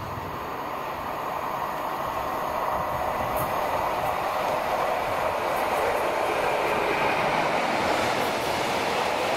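Class 60 diesel-electric freight locomotive, with its Mirrlees eight-cylinder engine, approaching and passing while hauling a train of tank wagons. The rumble of the engine and wheels grows steadily louder over the first five seconds or so, then holds as the locomotive goes by.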